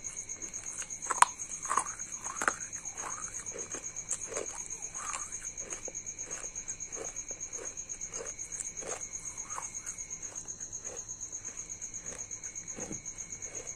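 Close-up chewing of broken slate-pencil pieces. Sharp crunches come about one to two and a half seconds in, then softer crunches about twice a second. A steady high-pitched pulsing tone runs underneath.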